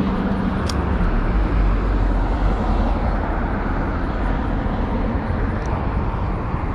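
Highway traffic running steadily, with a heavy vehicle's low rumble swelling about a second in. Two brief faint ticks sound over it.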